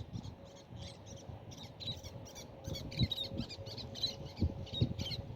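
A quick series of short, high chirps, several a second, typical of a small bird calling, with a faint steady hum and a few soft thumps underneath.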